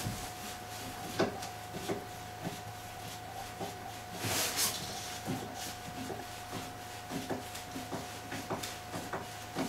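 Small scattered clicks and knocks of a screw being started by hand into a steel shelf bracket, with a short scraping rush about four and a half seconds in.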